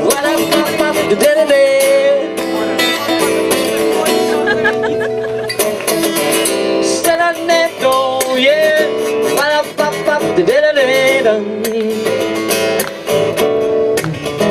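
Live acoustic guitar strumming a song's accompaniment, with a wavering melody line over it, between sung verses.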